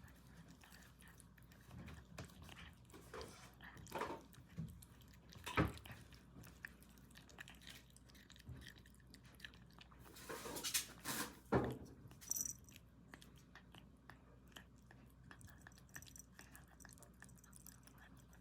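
Kitten chewing food: a run of soft chewing clicks with a few louder knocks in the middle.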